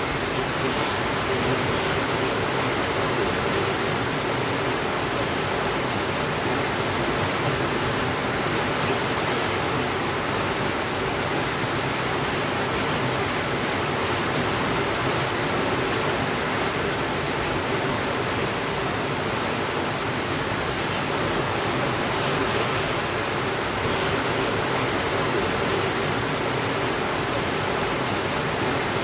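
Steady, even rainfall, a dense unbroken hiss of rain with no thunder.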